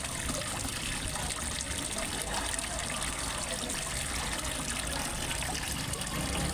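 Small waterfall splashing and trickling steadily into a fish pond.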